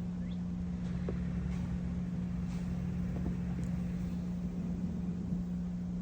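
Car engine running steadily with a constant low hum and rumble.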